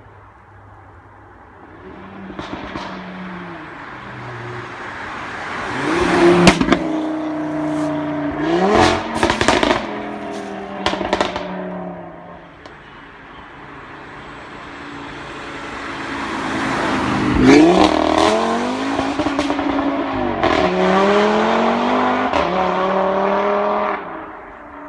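Audi RS3 8V's turbocharged five-cylinder engine, decatted with a sports exhaust, driving by twice. On each pass the note rises and falls with blips on the downshifts, and sharp exhaust pops and crackles come through, most of them on the first pass.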